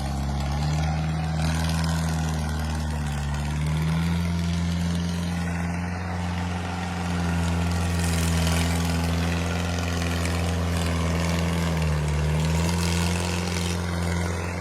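Tractor engine running steadily with a deep hum. Its pitch steps up slightly about a second and a half in and again around four seconds, then dips briefly and recovers near the end.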